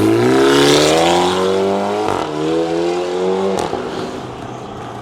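Toyota GR Supra 2.0's turbocharged four-cylinder, stage 2 remapped, breathing through a catted downpipe and a full titanium valvetronic catback exhaust, accelerating hard. The pitch climbs, drops with an upshift about two seconds in, climbs again, then falls away as the throttle closes a little over three and a half seconds in.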